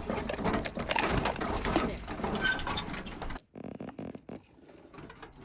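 Rapid, irregular clicking and rattling of small hard objects being handled, which cuts off abruptly about three and a half seconds in, leaving only faint scattered clicks.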